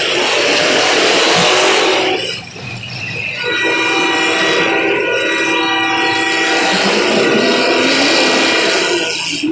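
Loud, steady noise throughout, with a steady horn blast of several held tones sounding for about three seconds from around three and a half seconds in.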